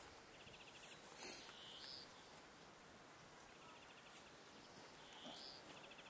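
Faint wild bird calls: a quick trill of short high notes and a short whistle, each heard twice, over a quiet outdoor hiss.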